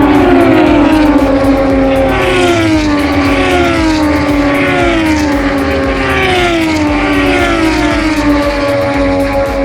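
MotoGP racing motorcycle engines at high revs on track. Their loud, overlapping engine notes fall in pitch one after another, with a new one coming in higher about once a second.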